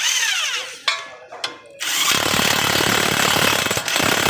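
Power tool working on the car's suspension: a brief falling whine at the start, then from about two seconds in, loud rapid hammering like an impact wrench on a suspension bolt.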